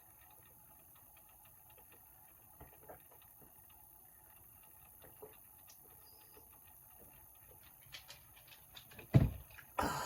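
Faint, scattered clicks and taps of small objects being handled, then a dull thump about nine seconds in and a short rustle near the end.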